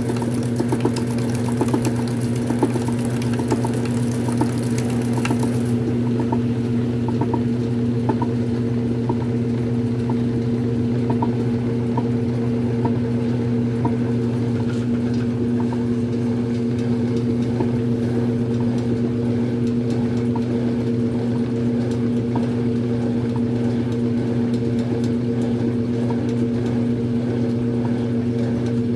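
Brastemp Super Filtromatica washing machine running with a steady motor hum and light ticking. A high hiss stops about six seconds in.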